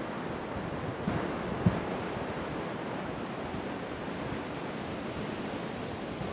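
Steady rush of surf and wind, with wind buffeting the microphone. Two brief low thumps come in the first two seconds, the second louder.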